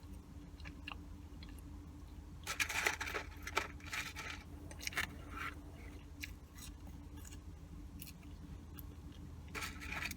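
Close-up chewing and crunching of McDonald's fast food in a mukbang. Crisp crunchy bites come in clusters, the loudest about two and a half seconds in and more near the end, over a steady low hum.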